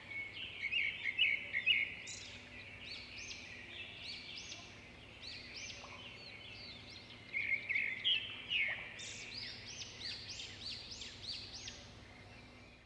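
Birds calling: quick, repeated high chirping notes, swelling into dense, louder chattering about a second in and again after about seven seconds.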